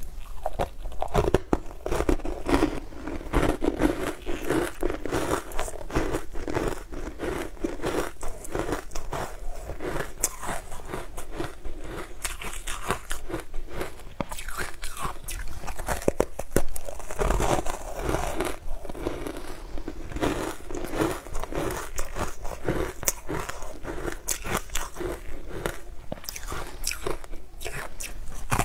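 Close-miked biting and chewing of a frozen dessert bar coated in green crumbs: a dense, irregular run of crisp crunches throughout.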